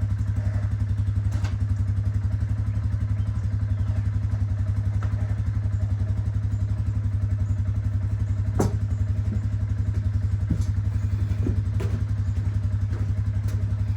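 Polaris Sportsman 570 ATV's single-cylinder engine running steadily at an even speed, with a few light knocks and clicks over it, one louder knock about halfway through.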